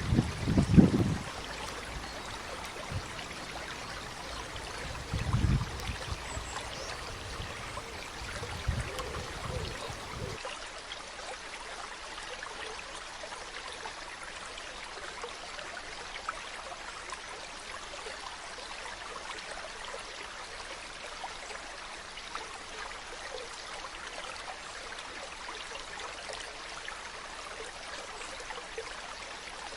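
Steady rush of flowing water, with a few low thumps in the first ten seconds; the sound changes abruptly about ten seconds in.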